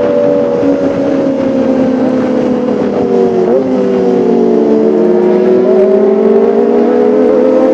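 Kawasaki ZX-25R's 250cc inline-four engine running at high revs with a high, whining exhaust note. The pitch sags gradually through the first half, then climbs again toward the end.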